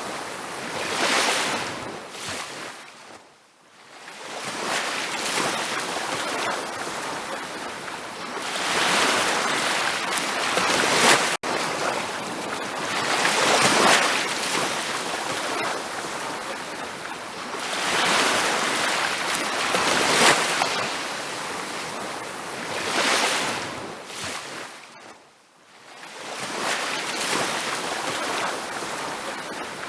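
Ocean surf washing onto a beach, swelling and ebbing every few seconds. It fades almost to nothing about three seconds in and again near the end.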